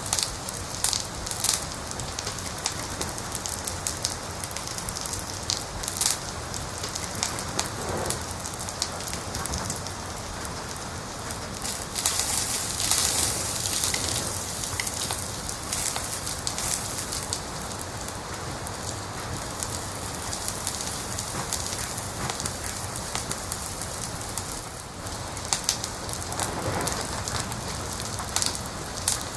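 Wood fire crackling: a steady hiss of burning broken by sharp pops and snaps, with a denser, louder run of crackling about twelve seconds in.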